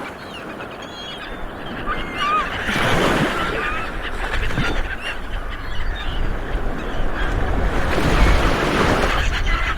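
A flock of seabirds calling over one another in many short, bending cries. Underneath is a steady rushing noise that swells about three seconds in and again near the end.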